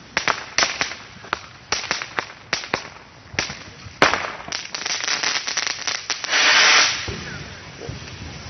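Consumer fireworks going off: irregular sharp bangs and pops for about four seconds, a louder bang, then dense crackling that ends in a loud hissing burst near the seven-second mark.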